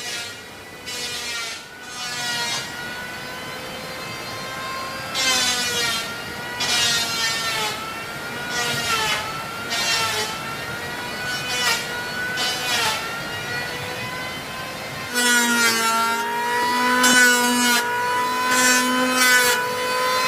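Chainsaw running and cutting wood, its engine note bending under load with each cut, then running louder and steadier from about fifteen seconds in.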